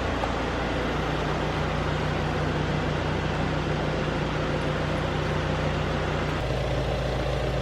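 Volkswagen Passat's engine and exhaust idling steadily with a low hum; about six seconds in, the idle note shifts slightly.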